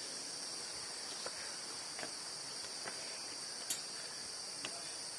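Steady, high-pitched chorus of insects in the surrounding vegetation, with a few faint clicks.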